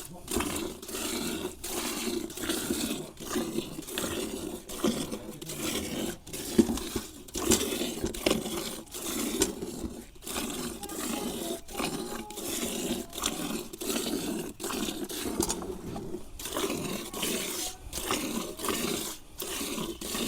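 A cow being milked into a pail: rhythmic squirts of milk, about two a second.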